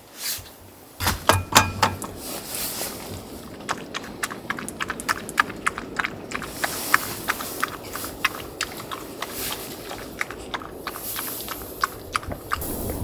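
A run of irregular sharp clicks and crackles over a steady hiss, starting about a second in and stopping near the end.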